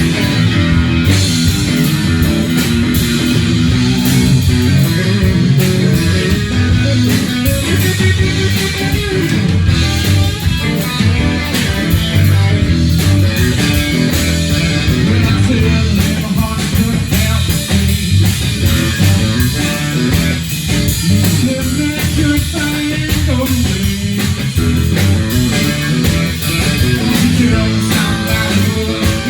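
Live blues-rock band playing: electric guitar to the fore over bass and drums, at a steady loud level.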